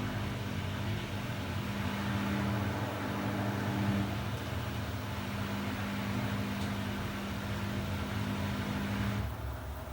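Samsung WW90J5475FX Digital Inverter washing machine running, a steady motor hum with a high-pitched tone over a rushing drum noise. About nine seconds in the tone cuts out and the sound drops to a low rumble.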